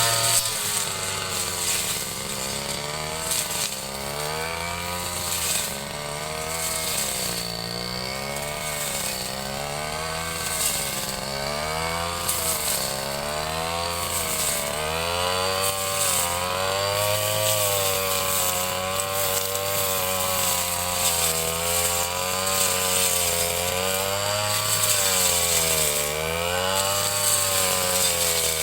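Ryu 30.5 cc two-stroke brush cutter running at high speed while cutting grass. Its engine pitch rises and dips over and over, every second or two, as the cutting load changes.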